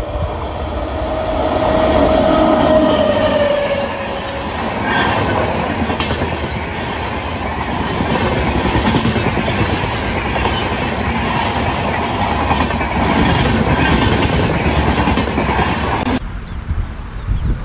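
WAP-7 electric locomotive's horn in one long blast, its pitch dropping slightly at the end, then the Jan Shatabdi Express passing at speed, its wheels clattering rapidly over the rail joints. The sound cuts off suddenly near the end.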